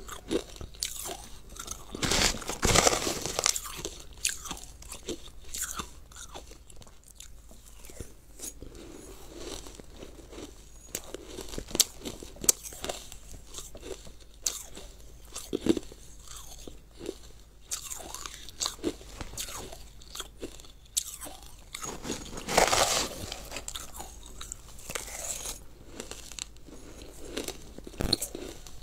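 Frozen, icy food crunched and chewed close to the microphone, with many sharp cracks as it breaks between the teeth. Twice there is a longer, louder rasp of a metal spoon scooping through the frozen food in its plastic tub, a few seconds in and again near the end.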